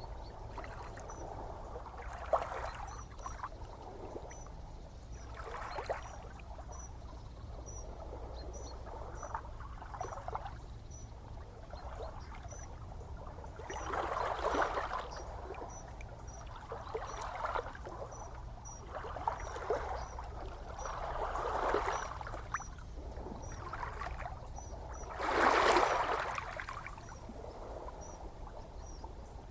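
Gentle ocean waves washing on the shore in slow swells, the loudest wave breaking about 25 seconds in. A faint high chirp repeats every second or so in the background.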